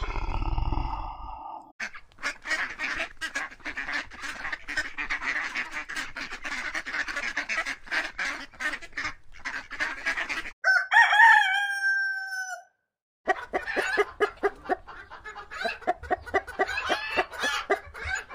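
A flock of mallard ducks quacking in a dense run of short calls, then a rooster crowing once, a held call of about two seconds, and, after a short gap, a rooster clucking in quick repeated notes.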